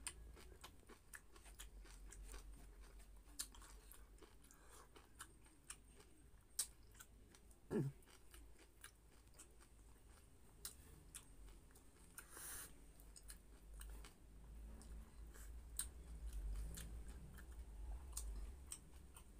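Quiet close-miked chewing and mouth sounds of a man eating rice with his fingers, with many small scattered clicks and smacks.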